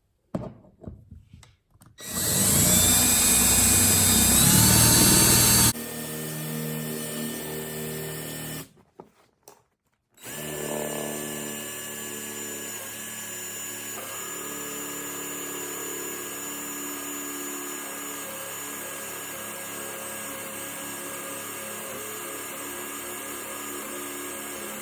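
Electric power tool cutting into wood flooring to open a hole for a floor box. It starts with a loud burst whose motor pitch rises over a few seconds, then runs quieter. After a brief pause about halfway in, it runs steadily at an even pitch.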